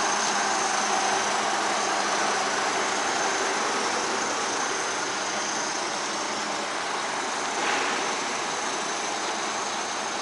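DAF 95 ATI 400 truck's six-cylinder diesel engine with a mechanical injection pump running steadily, its level easing slightly, with a short swell about three quarters of the way through.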